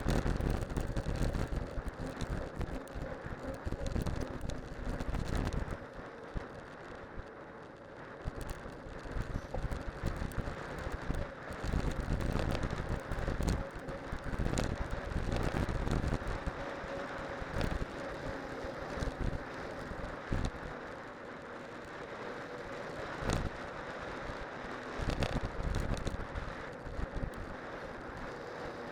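Cyclocross bike with spiked winter tyres rolling downhill: a steady rushing tyre noise with frequent knocks and rattles from the bike over bumps, and gusts of wind buffeting the microphone.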